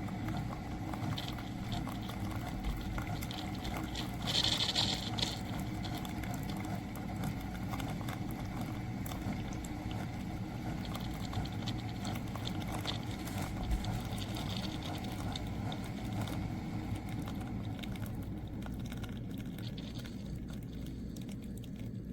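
Single-serve pod coffee maker running a brew: a steady pump hum with water running and sputtering, and a brief hiss about four seconds in.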